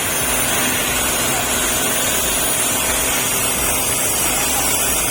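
Loaded container lorry's diesel engine running steadily, a low rumble under a loud, even hiss.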